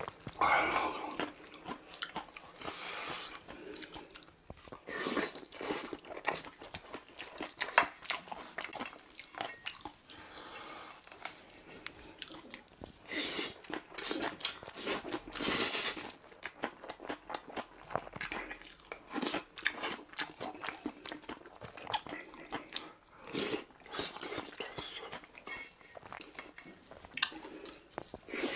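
Close-miked eating: a man chewing big mouthfuls of bibimbap with crunchy radish salad and bean sprouts, with irregular wet smacks and crunches.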